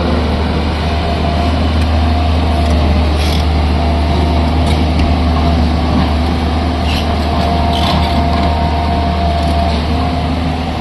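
Heavy diesel engine of construction machinery running steadily with a low, even hum, with a few brief faint high clicks now and then.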